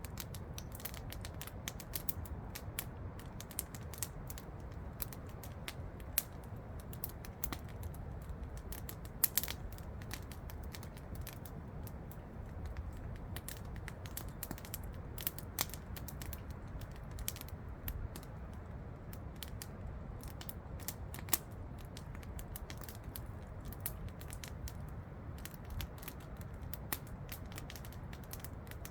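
Campfire crackling, with sharp pops at irregular intervals, over the steady rush of a waterfall.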